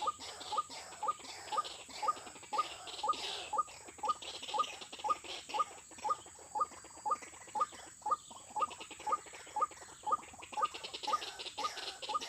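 White-breasted waterhen (ruak-ruak) call: a short, rising note repeated steadily, about three times a second, over a steady high hiss.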